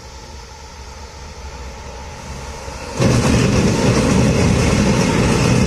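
Train approaching with a low rumble that builds slowly. About three seconds in, the locomotive reaches the camera and the sound jumps suddenly to a loud, dense rush of engine and rail noise.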